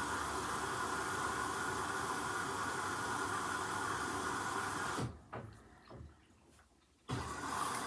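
Hoover H-Wash 300 washing machine drawing in water through its inlet valve, a steady hiss of the fill. About five seconds in it cuts out abruptly, with a couple of faint knocks, then starts again about two seconds later.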